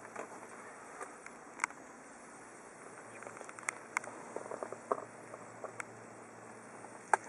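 Sporadic light clicks and knocks over a faint steady hiss, a small cluster of them about two-thirds through and the sharpest one near the end: handling noise.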